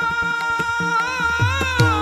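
Marathi devotional gavlan music: a long melodic note held and bending near the end, over a steady drone, with a few deep hand-drum strokes that drop in pitch.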